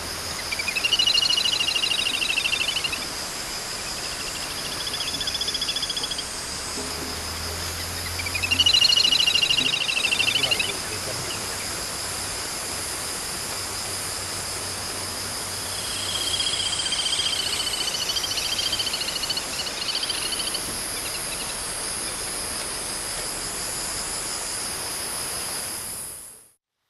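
A bird singing, four trilled phrases that rise and fall in pitch, over a steady high insect drone. The sound fades out near the end.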